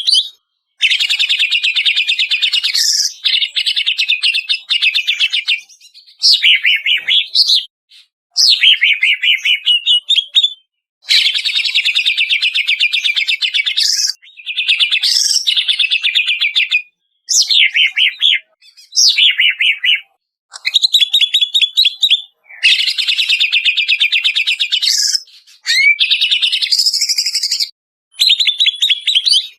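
Cucak ijo (green leafbird) song: loud, fast, chattering phrases of one to three seconds each, sometimes with sweeping notes, separated by short, clean breaks.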